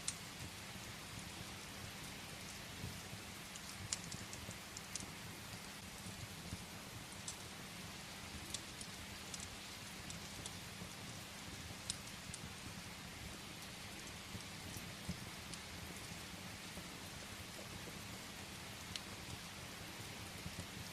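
Steady rain with a low rumble underneath, and scattered sharp crackles from firewood burning in a fireplace.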